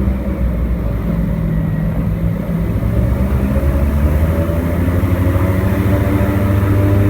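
Airboat's engine and propeller running steadily, the pitch rising a little about halfway through as it speeds up, getting slightly louder toward the end.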